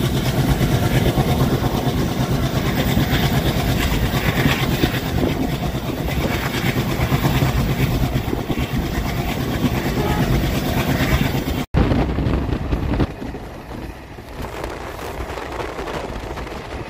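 ICF passenger coaches of an express train running on the rails: a steady, loud rumble with wheel-on-rail clatter. A little under twelve seconds in, it breaks off for an instant and continues quieter.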